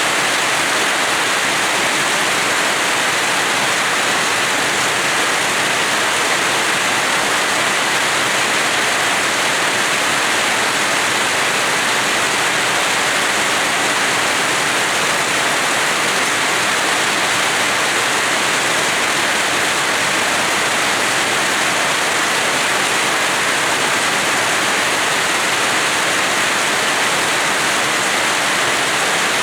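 Steady heavy rain falling, an even unbroken hiss with no thunder or other events.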